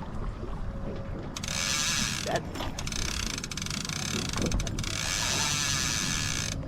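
Trolling reel's ratchet mechanism whirring with a hooked striped bass on the line. The fine, continuous whir starts about a second and a half in, breaks briefly twice, and stops just before the end.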